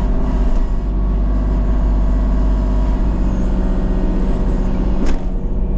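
Engine of a land-clearing machine running steadily, with a brief knock about five seconds in.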